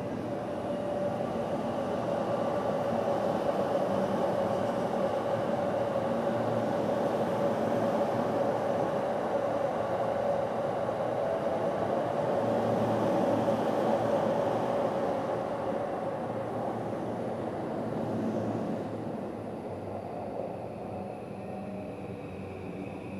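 Yamanote Line train pulling into the adjacent platform: wheel and motor rumble with a steady motor tone, building over the first few seconds and easing off as the train slows to a stop about three quarters of the way through.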